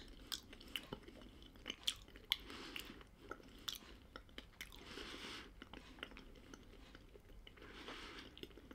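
Faint, closed-mouth chewing of hard, crunchy Tuc Baked Bites crackers, with irregular small crunches and clicks. The crackers are being worked with bare gums, which makes them hard going.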